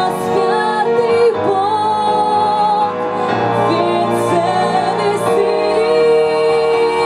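A woman singing a church song with instrumental accompaniment, holding long notes with vibrato.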